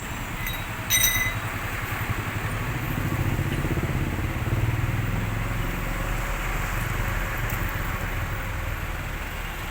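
Road traffic: a motor vehicle's engine passes, growing louder for a few seconds and then easing off, over steady road noise, with a short sharp sound about a second in.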